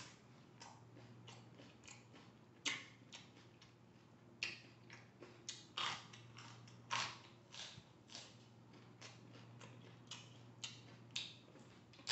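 Close-up chewing and biting of raw vegetables: a string of short, crisp, irregular crunches.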